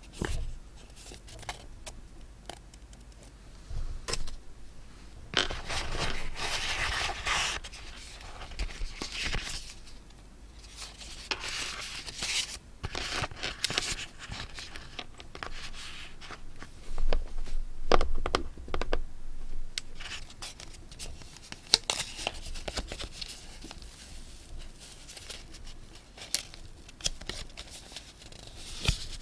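Paper and stationery handled close to the microphone: irregular rustling, scraping and tearing, with sharp little taps and clicks between.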